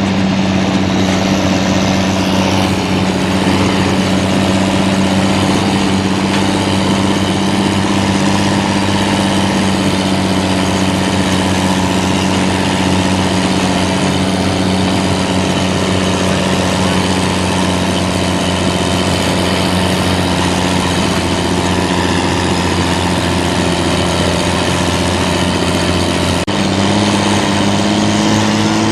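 Heavy military vehicle engine running steadily at a constant speed. Near the end its pitch steps abruptly higher and then climbs slowly.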